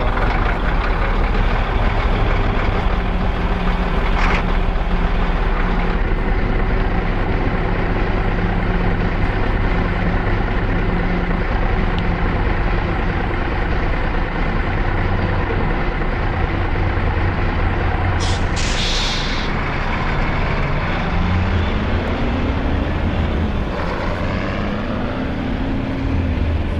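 A motor vehicle on the road, its engine and road noise running steadily. There is a short hiss about two-thirds of the way through, and near the end the engine's pitch rises and falls twice.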